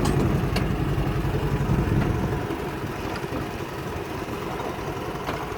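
Farm tractor engine running steadily at low speed, a low, even engine pulse that eases a little quieter about halfway through.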